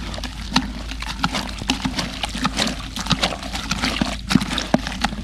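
Irregular wet clicks and squelches from the water-soaked ash and soil of a doused Dakota fire pit being worked with a stick.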